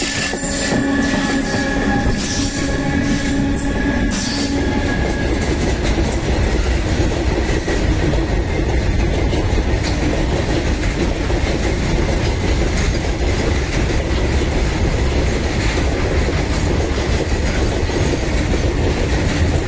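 Loaded container freight wagons rolling over a concrete railway viaduct: a loud, steady rumble of wheels on rails. A squealing tone from the wheels fades out about four to five seconds in.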